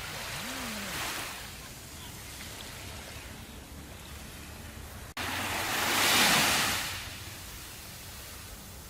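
Ocean waves washing on a shore, with a steady surf hiss. Near the middle the sound breaks off abruptly for an instant, then a louder wave builds, breaks and fades away.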